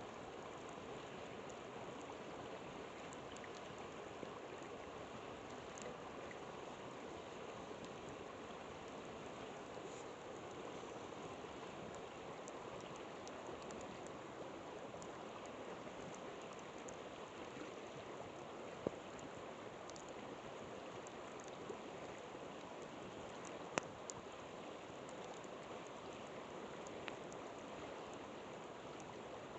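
River water flowing in a steady rush, with a few sharp crackles and pops from a wood campfire scattered through, two louder pops past the middle.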